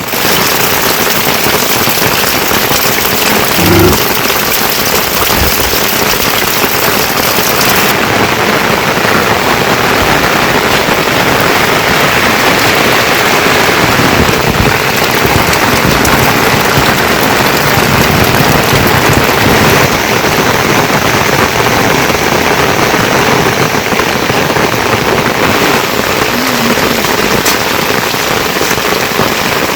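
Heavy rain falling steadily, a loud, even hiss. About four seconds in there is a brief thump.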